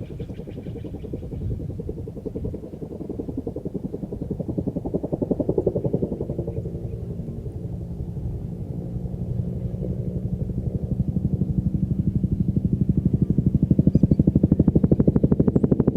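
Military helicopter flying, its rotor blades beating in a fast, even pulse that grows louder over the last several seconds.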